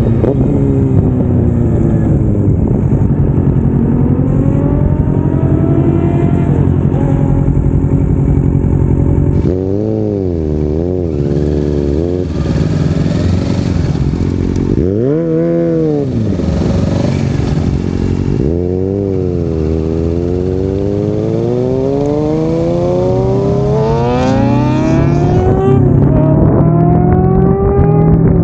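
Kawasaki Ninja 650's parallel-twin engine under way, its pitch climbing and dropping back again and again as it accelerates and shifts gears. Partway through come a few short up-and-down revs, then a long climb in pitch near the end.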